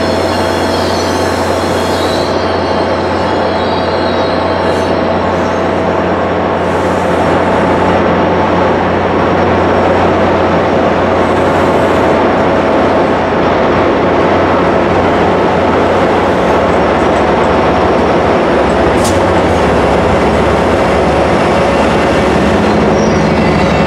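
MBTA commuter train of bilevel coaches rolling out past the platform behind its diesel locomotive, a steady engine drone over the rumble of the wheels. Wheel squeal can be heard in the first couple of seconds, then fades. The locomotive comes alongside near the end.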